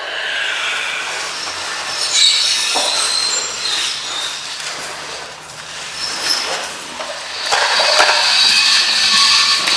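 Rusty pulleys and crank gears squealing and grinding as cables hoist a wire sculpture, with high metallic whines that grow stronger near the end.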